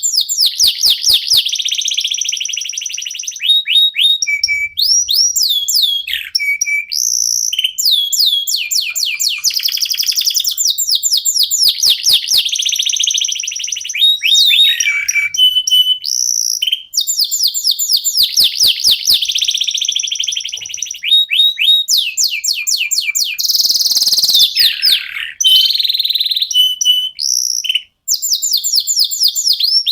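Domestic canary singing continuously: rapid rolling trills of repeated sweeping notes mixed with short held whistles, the song pausing briefly twice.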